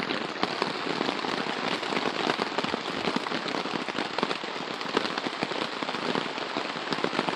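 Heavy rain pattering steadily on a hard surface, a dense, even crackle of countless drops.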